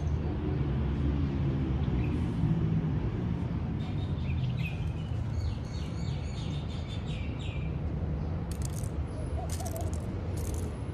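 Birds chirping in a garden over a steady low background rumble, with a quick run of repeated chirps through the middle and a few short high ticks near the end.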